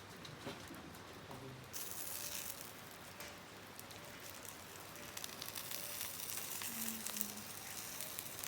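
Food sizzling in a pan over a campfire, with fine crackles throughout. The sizzle grows suddenly louder about two seconds in.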